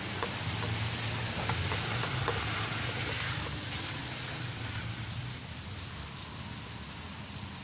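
Steady hiss of rain, with a few faint drip-like ticks early on and a low rumble underneath, easing slightly after about five seconds.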